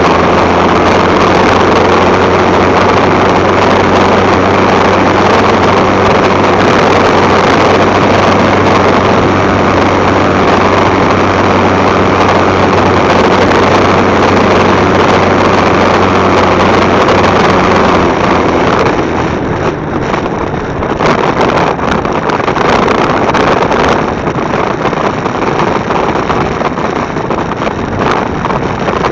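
Motorcycle running at speed, its engine a steady low hum under heavy wind rushing over the bike-mounted microphone. A little past halfway the engine hum fades and the noise drops somewhat, as when easing off the throttle.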